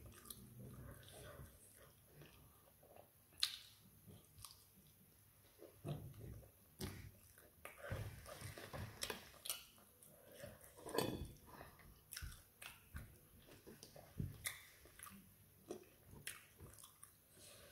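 A person chewing and eating fried tilapia and fried plantain by hand: soft, irregular mouth noises and sharp little clicks and smacks, the loudest a few seconds in and again about eleven seconds in.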